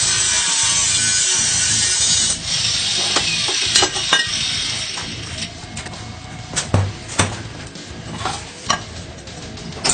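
Workshop power tool making a steady hissing, grinding noise that drops off about two and a half seconds in and fades away over the next few seconds. Scattered clicks and knocks follow.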